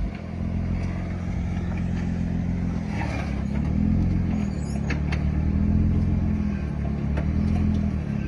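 Off-road vehicle's engine running at low revs, its pitch rising and falling slightly as it crawls up a dry rocky waterfall. A few short sharp clicks sound over it.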